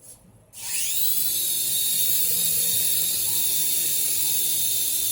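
Small electric motors of a toy remote-control helicopter spinning up: a high whine that rises quickly about half a second in, then holds at a steady high pitch as the rotors run.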